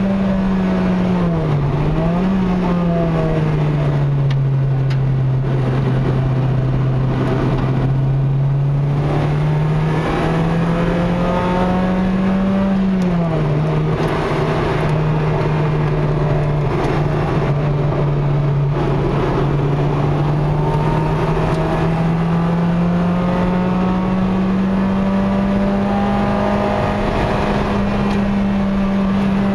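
Honda Integra Type R (DC5) 2.0-litre four-cylinder engine heard from inside the cabin, driven at an easy pace short of full throttle. Its note dips and climbs in the first few seconds, rises then drops sharply about halfway through, and climbs slowly to a higher steady pitch over the last third, over steady road and tyre noise.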